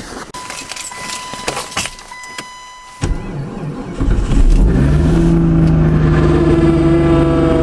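Clicks and a steady electronic chime, then the Chrysler Sebring's engine cranks briefly and catches about four seconds in, in a cold start at about minus 28 °C. It settles into a loud, fast cold idle whose pitch slowly drops.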